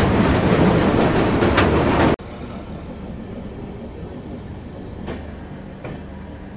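Loud running noise of a moving passenger train with clacks from the wheels over rail joints. About two seconds in it cuts off abruptly to a much quieter steady low hum with a few faint clicks.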